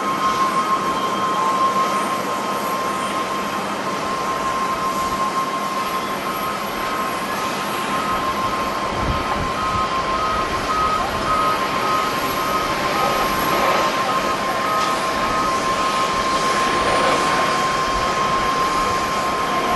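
Jet airliner noise: a steady rushing with a high steady whine. A quick repeating beep sounds over it and stops about two-thirds of the way through.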